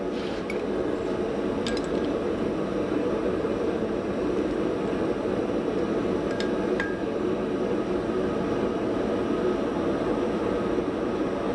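Forge running with a steady rushing noise, with a few light metallic clinks scattered through it.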